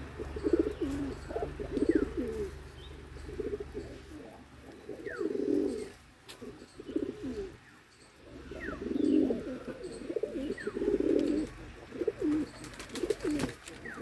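Domestic pigeons cooing over and over in low, throbbing phrases, with a few faint, thin high chirps from other birds between them.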